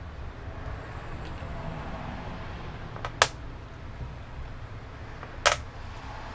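Two sharp clicks, a little over two seconds apart, as hard resin dominoes are worked out of their mold and handled, over a low steady background hum.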